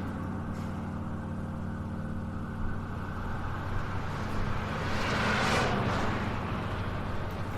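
Instrumental track intro: a steady low synth drone holding the same low notes, with a hissing swell that builds and fades about five to six seconds in.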